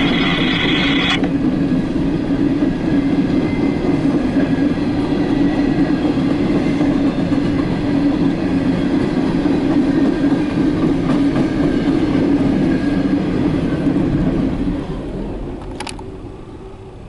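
Empty coal train's cars rolling past with a steady rumble and wheel clatter on the rails, fading away about fifteen seconds in as the train moves off. A brief high squeal sounds in the first second.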